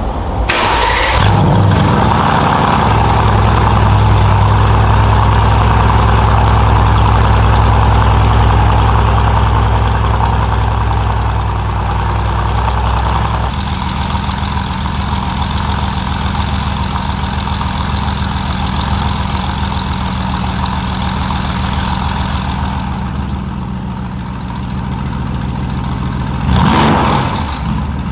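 Mercedes-AMG GT S twin-turbo V8 through a custom valved exhaust, starting with a short flare and holding a fast idle. About halfway it drops to a lower, steady idle, and near the end there is a quick blip of the throttle.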